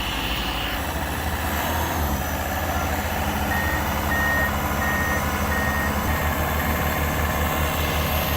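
Diesel engines of Komatsu excavators running under load, a steady low drone with a fast pulse, as a PC-210 pulls a PC-130 out of deep mud. About three seconds in, a machine's travel alarm beeps roughly twice a second for a few seconds.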